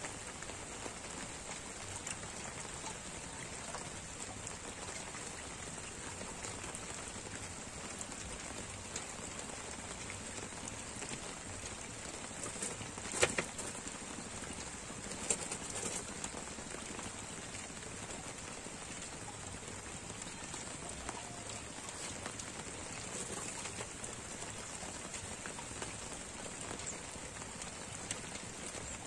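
Steady hiss of light rain falling on the reservoir water, with a few short knocks about halfway through.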